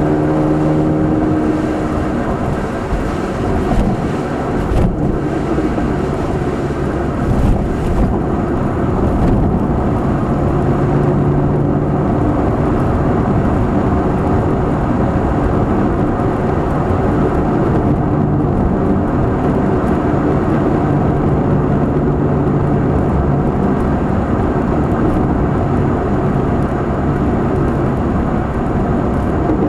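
Nissan March K12 12SR's four-cylinder engine through a Kakimoto aftermarket exhaust (NCP360 centre pipe, GTbox 02 edi. rear muffler), heard from inside the cabin while driving. The engine note shifts about a second in. For several seconds it is rougher, under road noise with a few thumps, and after that it settles into a steady cruising drone.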